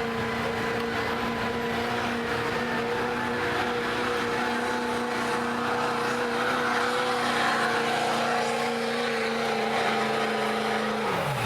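Stock diesel pickup engine running hard at steady high revs under load, as in pulling a sled down the track. Its pitch drops sharply near the end as the throttle is let off.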